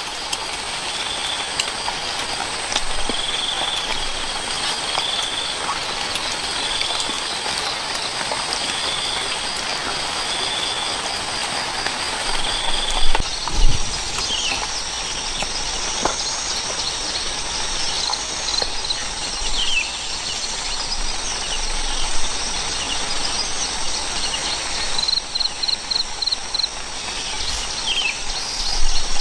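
Steady outdoor noise with an animal's short high call repeating about once a second, later joined by faster trills and short falling chirps. A few sharp knocks come about halfway through.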